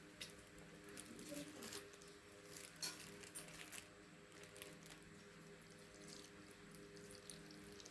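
Faint handling noises, light clicks and taps scattered through, one a little sharper about three seconds in, over a steady low hum.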